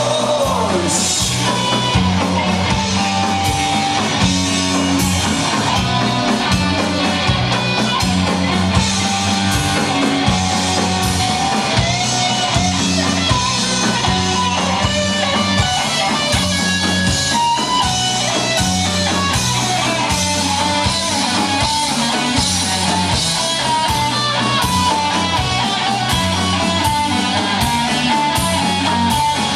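Rock band playing live in an instrumental passage: electric guitars with a melodic lead line over a stepping bass line and a steady drum kit beat with cymbals.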